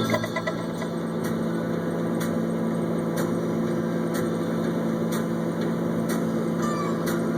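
An engine idles steadily, with a faint tick about once a second.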